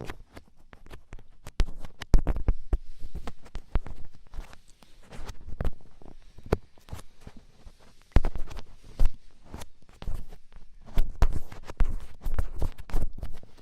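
Firm ear-pick scratching against a microphone, ear-cleaning ASMR style: clusters of dry scraping and clicking with dull low thumps, broken by short quieter pauses.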